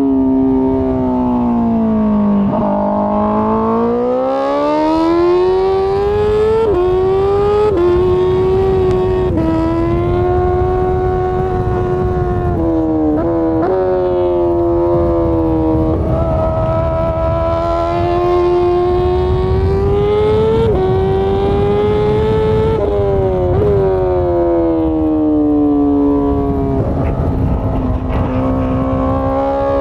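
Honda CBR1000RR-R Fireblade's inline-four engine under way. Its note falls, then climbs and dips with the throttle, with abrupt pitch steps every few seconds at the gear changes.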